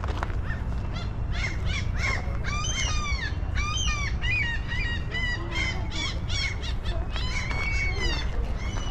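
Birds calling over and over, a quick run of short, arched calls, a few a second, from about a second in until near the end, over a steady low rumble.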